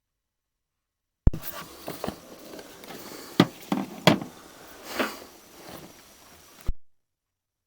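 A few scattered knocks and thumps over a faint hiss. The sound starts abruptly about a second in and cuts off abruptly near the end.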